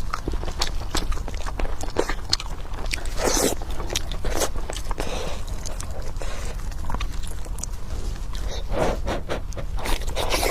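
Close-miked eating sounds of someone chewing and biting pork: irregular wet clicks and crunches, with a few louder bites about three and a half seconds in and again near the end.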